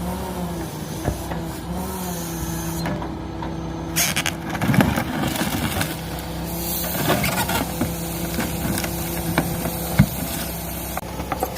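A claw truck's engine running steadily, its pitch stepping up and down a few times, with clatters and knocks of debris handled by the grapple, the loudest about four, seven and ten seconds in.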